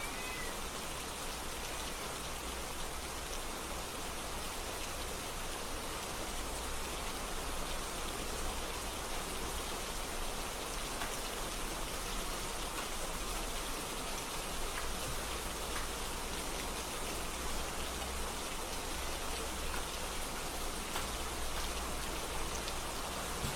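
Steady rain falling, an even hiss of rain on surfaces with no change in strength.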